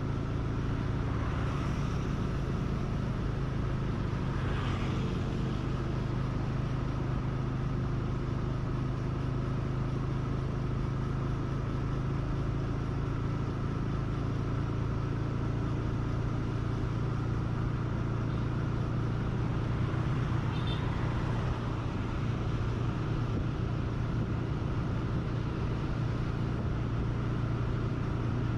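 A vehicle's engine running steadily under way, with a constant low hum over road and traffic noise. Brief higher sounds from passing traffic come about 4 seconds and 21 seconds in.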